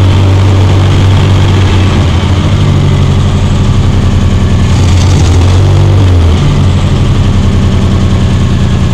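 Chevrolet Opala's inline-six engine running at low speed with a steady, pulsing rumble; the engine note shifts briefly in the middle and settles back to a lumpy idle over the last couple of seconds.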